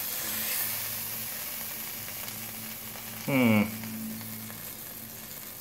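Steak and sliced potatoes sizzling in hot oil in a pan on a camp stove, a steady hiss that slowly fades as the steak is lifted out with a fork. A brief pitched sound about three seconds in.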